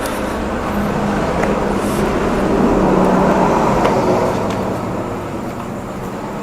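Road traffic: a passing vehicle's rushing noise builds to a peak about three seconds in, then fades.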